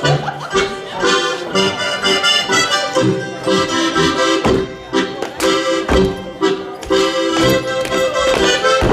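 Accordion playing a lively Bavarian Schuhplattler dance tune with a steady oom-pah pulse. Sharp slaps and stomps from the Schuhplattler dancers cut through the music every second or so.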